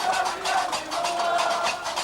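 Gnawa music: a fast, even clatter of qraqeb, the iron castanets, about six or seven strokes a second, with a wavering melody line over it.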